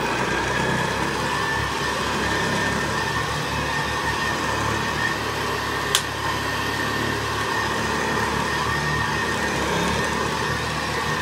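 Vintage Hoover Senior 652A upright vacuum cleaner running steadily, a motor hum with a steady high tone over it, and a single sharp click about six seconds in. Its brush roll is a bit rattly, which the owner puts down to bearings wanting oil.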